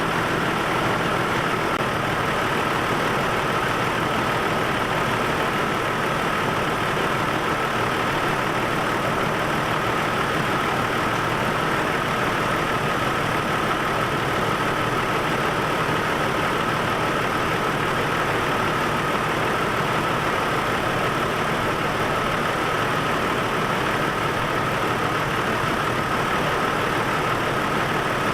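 Chevy Trailblazer's 4.2-litre inline-six idling steadily while misfiring on cylinder number 1, with a steady high-pitched whine over it.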